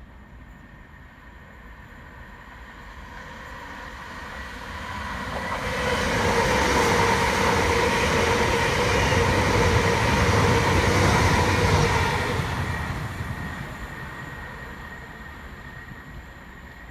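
An 8-car c2c Class 357 Electrostar electric train passing through the station at speed without stopping. It rises from a distant rumble to a loud rush of wheels and a steady electric whine, then fades away.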